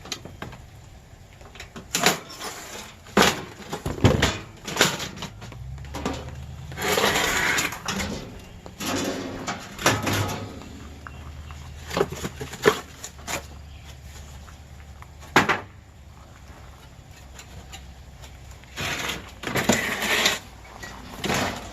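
Sharp metal knocks and clanks with stretches of scraping and tearing as an air conditioner is pulled apart for scrap. A faint low hum comes in about six seconds in.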